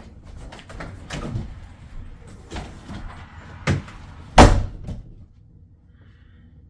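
A door slammed shut, the loudest knock about four and a half seconds in, after a few lighter knocks and thuds.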